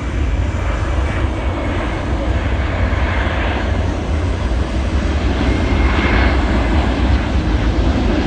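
North American Rockwell OV-10 Bronco's twin turboprop engines running steadily through a display pass, a continuous drone with a faint high whine.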